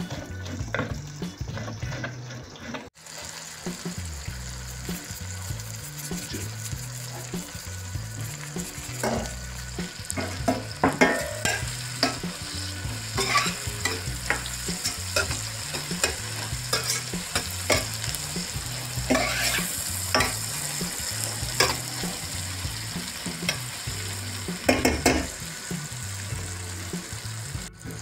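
A knife chopping tomatoes on a wooden board, then, about three seconds in, sliced wurstel sausage, tomato and onion sizzling in a stainless steel frying pan while a spoon stirs them, with sharp scrapes of the spoon against the pan.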